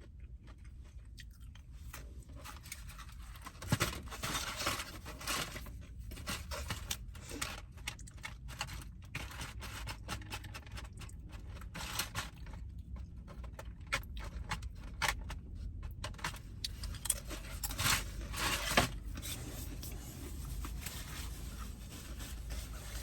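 Close-miked eating and food handling: irregular crinkling, scraping and crunching with many small clicks.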